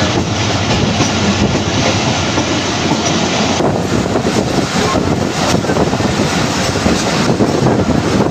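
Tezgam Express passenger train running, its wheels clattering over the rails in a loud, steady rumble and rattle.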